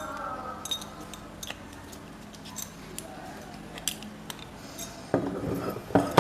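Scattered light metallic clicks and clinks of small metal parts and tools being handled while an old electric fan is worked on, with a louder, busier clatter near the end.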